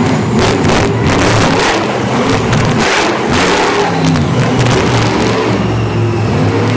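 Monster truck supercharged V8 engines revving loudly, their pitch rising and falling again and again.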